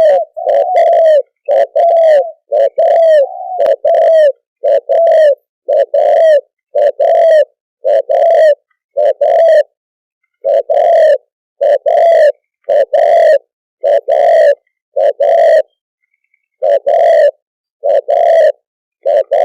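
Spotted dove cooing: a long run of short, low coos, a little more than one a second, with brief pauses about ten and sixteen seconds in.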